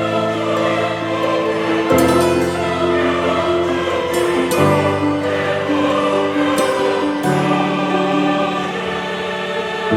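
Background choral music: a choir singing slow, held chords, with the chord changing every two to three seconds.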